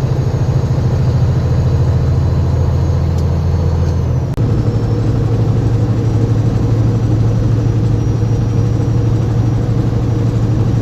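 Semi truck's diesel engine running steadily under way, heard from inside the cab as a low hum. About four seconds in the engine note changes, with a brief dip in level.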